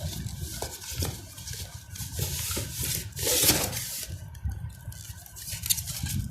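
Unboxing a die-cast model car: cardboard and plastic packaging being handled, with scraping, rubbing and small knocks, and one louder, longer scrape about three seconds in.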